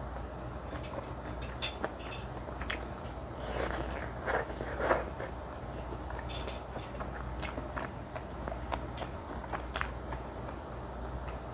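Close-miked chewing of spicy mala xiang guo, with wet mouth sounds and many small sharp clicks. It gets louder and busier for a second or so about four seconds in.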